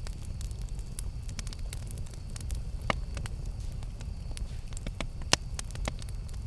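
Campfire crackling: frequent small sharp pops over a steady low rumble, with two louder snaps about three and five seconds in.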